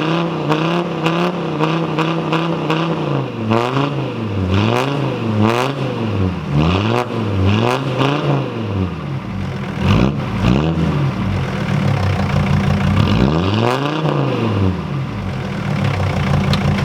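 Straight-piped Mercedes-Benz W123 300D five-cylinder diesel engine being revved over and over, its pitch rising and falling with each rev. It settles to a steady idle near the end.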